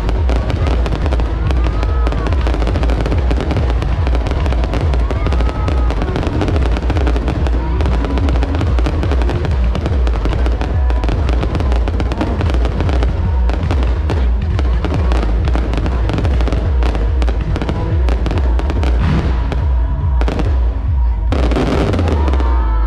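A fireworks display bursting continuously: dense crackling over a deep rumble of booms, with music playing alongside. The crackling thins briefly near the end, then comes back as dense as before.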